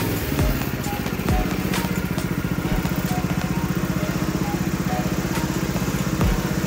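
Predator 212 single-cylinder four-stroke engine running steadily under load, driving a go-kart, with a few low thumps.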